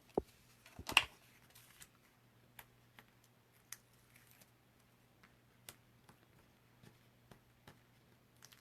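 Paper and cardstock being handled on a work table: a light knock just after the start, a short crackle about a second in, then scattered faint ticks and clicks over a low steady hum.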